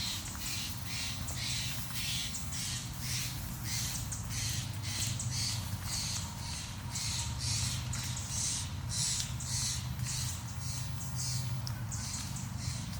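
Footsteps crunching on a wet gravel and leaf-strewn forest trail at a steady walking pace, about two steps a second, over a low steady rumble.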